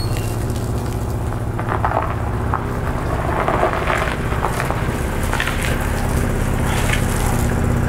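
The Opel Omega B's X20XEV 2.0-litre four-cylinder engine idling steadily, with scattered crackling noises over it.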